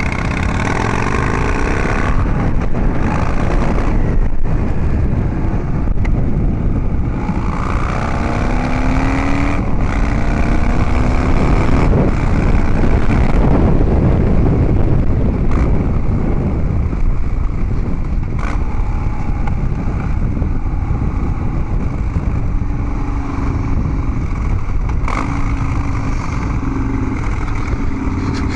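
Harley-Davidson Dyna Street Bob's V-twin running through Vance & Hines Big Radius 2-into-2 exhaust pipes while riding, its pitch climbing several times as it accelerates.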